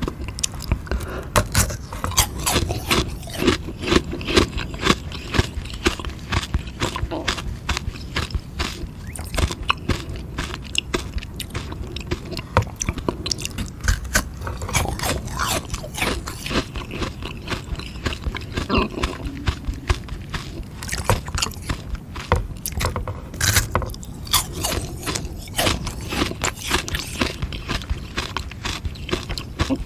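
Biting and chewing a hard frozen sugar-water ice lolly: a rapid, irregular run of sharp crunches as the ice is broken up and chewed.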